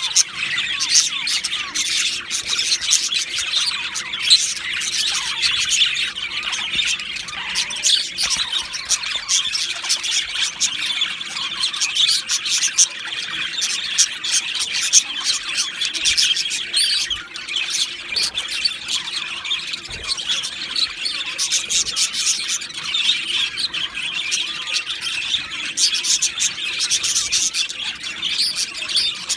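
Male budgerigars warbling and chattering without pause, a dense stream of quick chirps, clicks and squawks.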